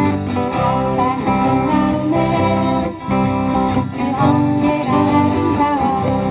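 Acoustic guitars strumming chords in a steady rhythm with a melody line over them: the instrumental intro of a Korean folk-song medley, before the singing comes in.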